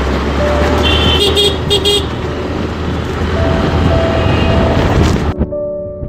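Busy street traffic: several vehicle horns honking in short toots over a steady low rumble of engines and road noise.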